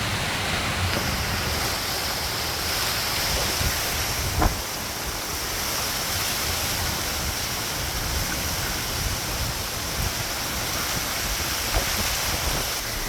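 Hurricane wind and heavy rain pouring down steadily, with gusts buffeting the microphone as a low rumble. A single short knock about four and a half seconds in.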